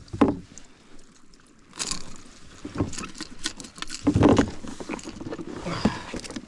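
Irregular knocks, scrapes and rattles from a fishing kayak and its gear while a just-landed smallmouth bass is handled, with the loudest clatter a little past four seconds in.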